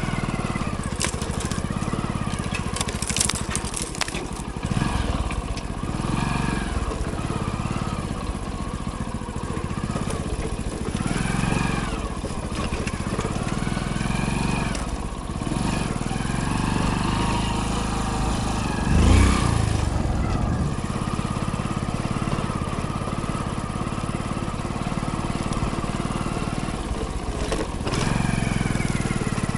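Hero Splendor motorcycle's single-cylinder engine running on the move, its pitch rising and falling with the throttle. Knocks and rattles come from the rough trail, with one loud thump about two-thirds of the way in.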